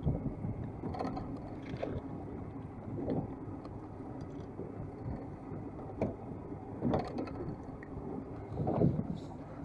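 Water lapping and slapping against the hull of a small fishing boat, with irregular knocks and bumps over a low steady rumble.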